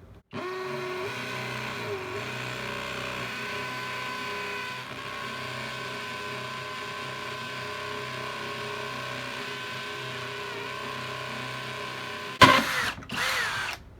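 Kobalt 24V XTR cordless hammer drill drilling, its motor whining steadily for about twelve seconds. Near the end it turns louder and rougher for a second or two, then stops.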